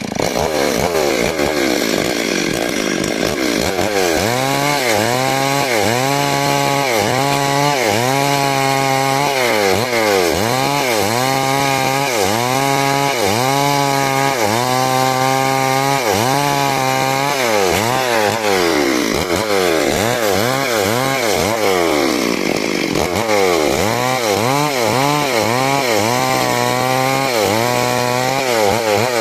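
Two-stroke 382 chainsaw running hard and cutting wood, its engine pitch rising and falling about once a second as it works through the cut, with a steadier stretch in the middle.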